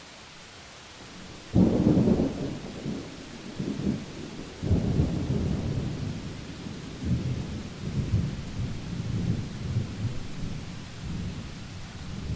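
Thunderclap over steady rain: a sudden loud crack about a second and a half in, then a long rolling rumble in several surges that dies away near the end.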